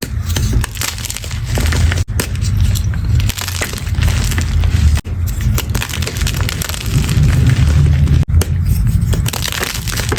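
Chalk being crushed: dense crunching and crumbling, cut into short clips with abrupt breaks about two, five and eight seconds in.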